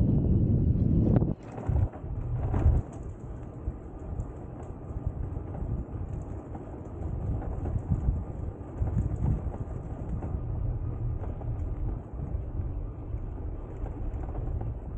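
Low rumble of wind buffeting the camera microphone, with the noise of a moving bicycle. It is loudest for about the first second, then drops and carries on unevenly.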